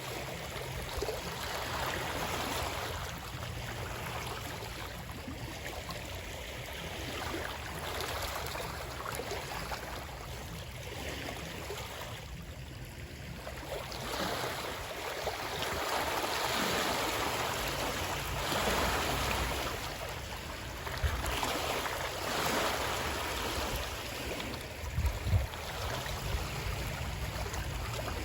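Continuous rushing, splashing water that swells and eases every few seconds, with a few low thumps near the end.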